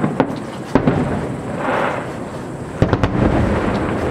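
Aerial firework shells bursting: sharp bangs at the start, another about three-quarters of a second in and a quick cluster near three seconds, with a low rumble between them.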